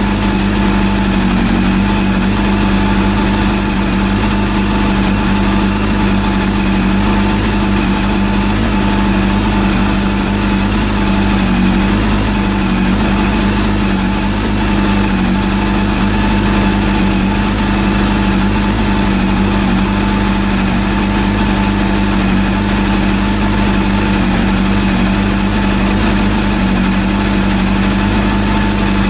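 Freshly rebuilt Honda CB400 four-cylinder engine idling steadily at an even speed.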